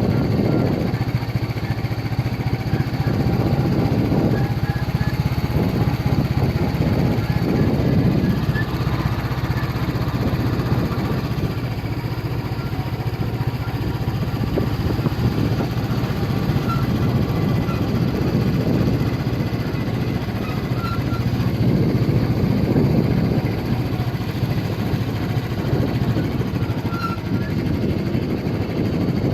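Motorcycle engine running steadily while riding, a constant low hum with a rough rushing noise that swells and fades several times.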